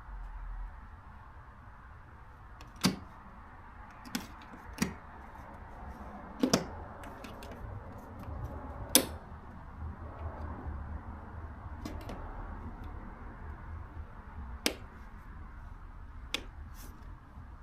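Scattered sharp knocks and clicks of hand work on building materials, about seven irregular taps over a low steady hum.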